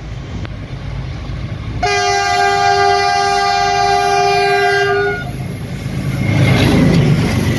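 4500 hp GE WDG4G diesel locomotive sounding its horn in one steady blast of about three seconds over the low rumble of the engine. After the horn stops, the engine and the freight train's wheels on the rails grow louder as the train comes past.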